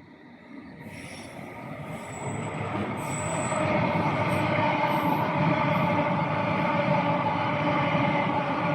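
A train approaching and passing close by. It grows louder over about four seconds, then runs on steadily: a rumble of wheels on the rails under a hum of several steady tones.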